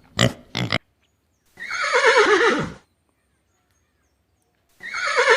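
A pig grunting briefly at the start, then a horse whinnying twice, each neigh a quavering call that falls in pitch and lasts about a second.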